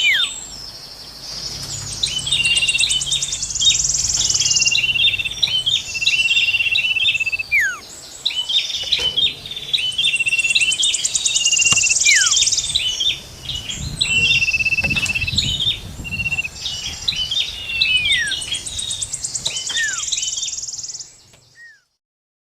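Bird-lure recording of songbirds, common iora, prenjak and cikrak kutub, singing together. A fast, high, buzzy trill, a steady high whistle, short chips and falling whistles repeat in the same pattern about every eight seconds, then fade out near the end.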